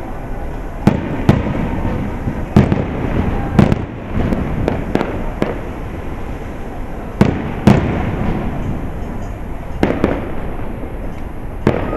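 Aerial firework shells bursting, a string of sharp booms at irregular spacing, about one a second, over a steady background rumble of noise. The loudest bangs come in pairs about a second in and again about seven seconds in.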